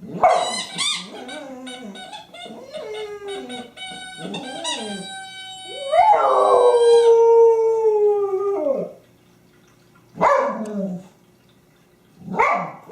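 A dog howling: a run of wavering, rising and falling howls, then one long loud howl that sags slightly in pitch, then two short howls with pauses between them.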